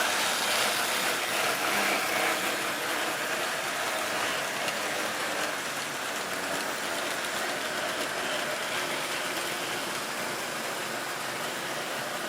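Model railway train running on its track: a steady whirring and rattling of the motor and wheels, easing off slightly after a couple of seconds.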